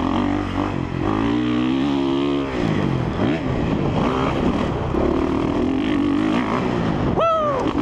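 Honda CRF450R dirt bike's single-cylinder four-stroke engine under way, revving up hard about a second in, chopping off the throttle at about two and a half seconds, then climbing and falling in pitch as the throttle goes back on and off. Near the end comes a brief high-pitched sound that swoops up and down.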